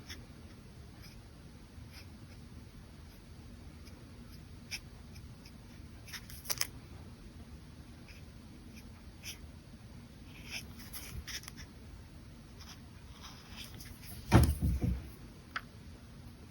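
Brush pen strokes on paper: sparse soft scratches and light ticks. Near the end comes a short cluster of low thumps, the loudest sound.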